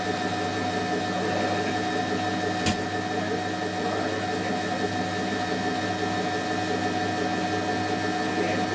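Hoover Electron 1100 washing machine spinning, its motor giving a steady hum with a buzz. A single sharp click about three seconds in.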